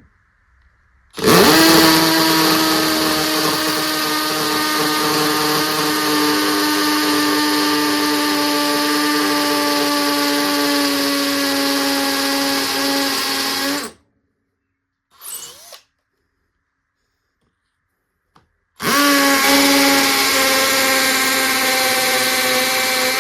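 Budget 20-volt cordless hammer drill drilling into a brick wall: the motor starts about a second in and runs steadily under load for about thirteen seconds, stops, then starts again near the end.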